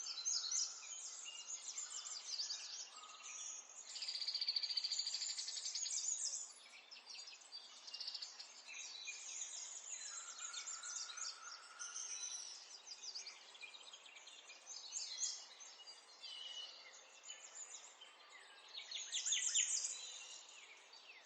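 Several songbirds singing and chirping together, with fast high trills and twittering phrases overlapping, a loud buzzy trill about four seconds in and another near the end.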